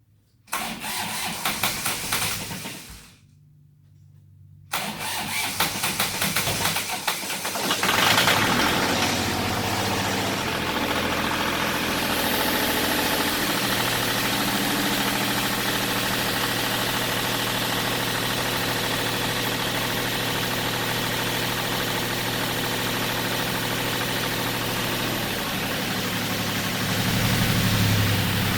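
An engine cold-started after sitting all winter: the starter cranks for about two and a half seconds without the engine catching, cranks again, and the engine fires about eight seconds in and settles into a steady idle. The idle drops a little about halfway through and rises slightly near the end.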